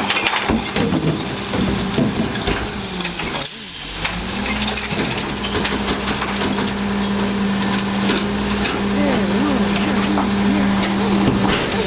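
Garbage truck engine running steadily at raised speed, with a brief dip about three and a half seconds in. Scattered clanks and rattles sound over it.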